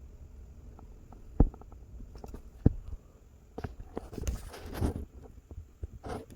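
Gusty wind buffeting the microphone: a low rumble with a few sharp knocks, and a rushing gust about four seconds in.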